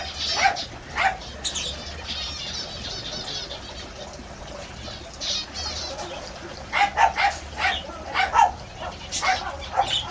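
Mixed aviary birds (parakeets, finches, lovebirds, cockatiels) chirping and chattering, with a run of rapid warbling early on and a cluster of louder, sharper calls in the second half.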